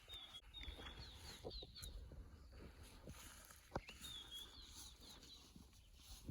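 A bird calling faintly: a quick run of short, high, rising notes, heard twice, the second time at about four seconds. A single sharp tap comes a little before the second run.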